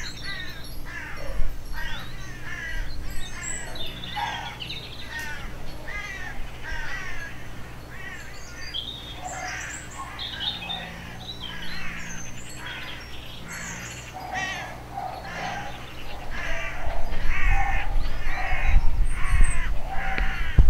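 Garden birds chirping and calling continuously in quick, overlapping phrases. A low rumble grows louder for the last few seconds.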